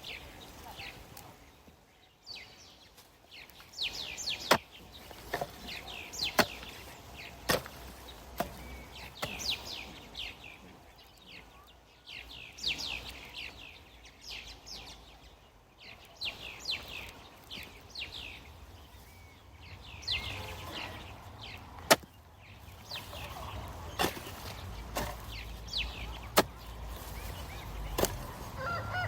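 Small birds chirping in quick, high, repeated clusters, with single sharp clicks or knocks every second or two.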